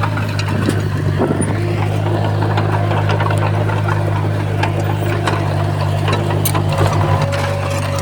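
A heavy diesel engine of earthmoving machinery runs steadily with a deep, even hum. Scattered sharp clanks and clicks of metal and material sound over it.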